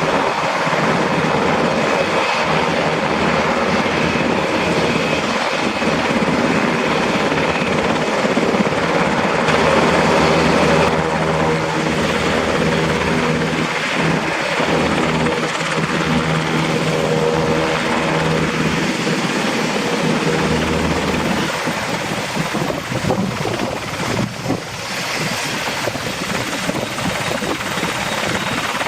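UH-60 Black Hawk helicopter running, its twin turboshaft engines and rotor making a loud, steady noise with a continuous hum; it grows a little quieter over the last several seconds.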